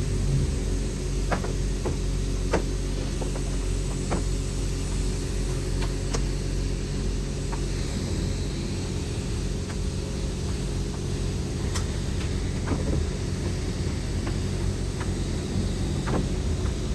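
A vehicle engine running steadily, a low, even drone, with scattered sharp clicks at irregular times.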